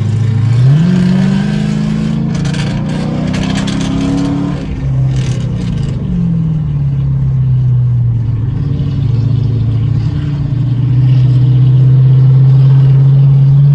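V8 car exhaust under hard acceleration: the engine note climbs steeply through a gear for about four seconds, drops at a shift, falls away as the throttle comes off, then holds steady and gets louder again near the end.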